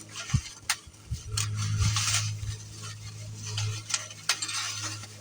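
Small hard motorcycle parts being handled among their packaging: scattered light clicks and knocks with rustling. A low steady hum runs underneath from about a second and a half in.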